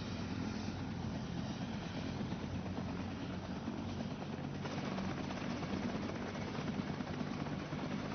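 Helicopter running steadily, its rotor and engine making a continuous whirring drone.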